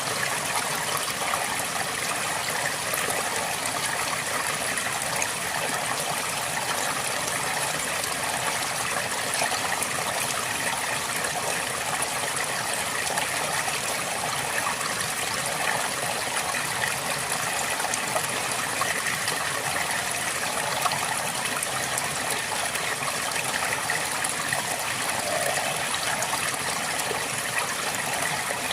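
A river flowing steadily over rocks: a continuous rush and gurgle of water.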